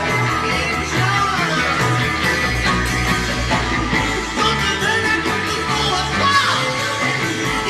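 1960s psychedelic garage rock recording: electric guitar, bass and drums playing a driving beat, with wavering, bending tones over the top typical of the band's electric jug, and a falling glide about six seconds in.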